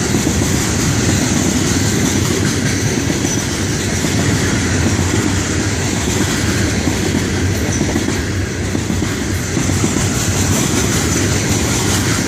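Cars of a Florida East Coast Railway freight train, a rock train of aggregate and cement hoppers, rolling past close by: a steady, loud rumble of steel wheels on the rails.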